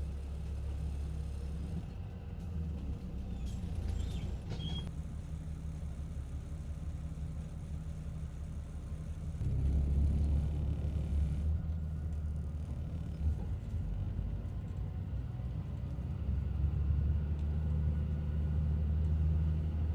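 Low, steady engine rumble of a city bus, growing louder about ten seconds in.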